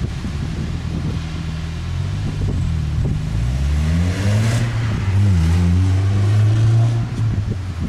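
A car engine accelerating: its pitch climbs, dips briefly about five seconds in as it shifts gear, then rises again and holds. A rushing hiss peaks near the middle, over storm wind noise on the microphone.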